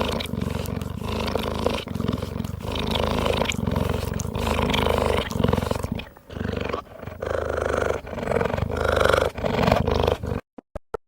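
Lion roaring: a long run of deep, rough calls that cuts off suddenly about ten seconds in.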